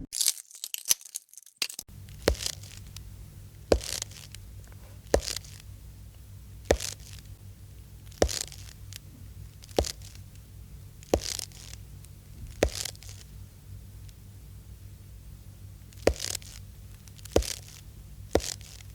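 Slow footsteps, one crisp step about every one and a half seconds, with a short pause before the last few steps, over a steady low hum. A short burst of hissing noise comes first, before the steps begin.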